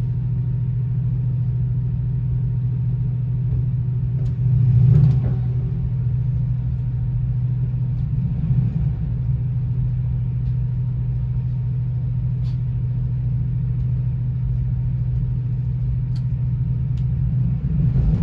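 Steady running rumble heard inside a BR Mark 3 passenger coach of a train hauled by a Class 68 diesel locomotive at speed. It swells louder for about a second about five seconds in, again briefly around nine seconds, and near the end.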